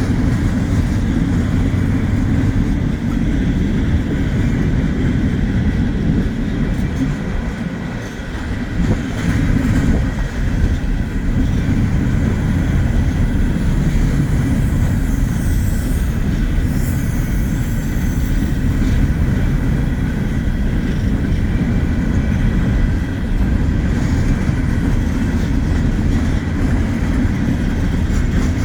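Wheeling & Lake Erie freight train rolling past, a steady heavy rumble of cars on the rails, with faint high wheel squeals about halfway through.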